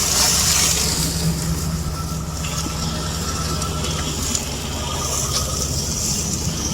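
A steady low machine drone with a hiss above it and a few faint crackles.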